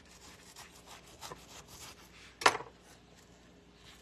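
Leaves being pulled off a thawed head of cabbage by hand: soft rubbing and crackling strokes, with one sharp knock about two and a half seconds in.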